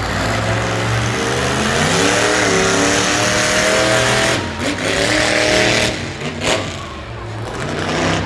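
Monster truck engine revving hard, its pitch climbing for about three seconds. It drops sharply about four seconds in, climbs again, then eases off.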